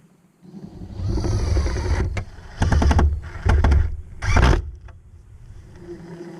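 Cordless power drill driving screws into wood. The motor runs for about a second, then comes three short bursts.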